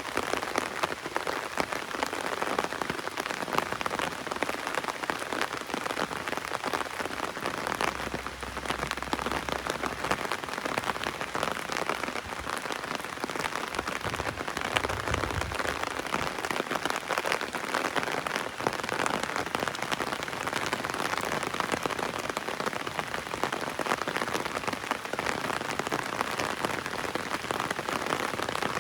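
Heavy rain falling on an umbrella held overhead: a dense, steady patter of countless drops.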